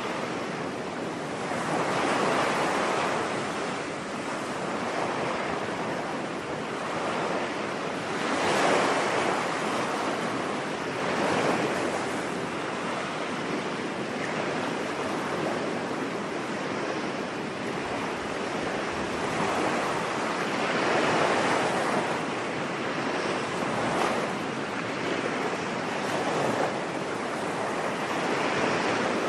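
Ocean surf washing onto a beach, a steady rush of water that swells and falls back every few seconds as waves break.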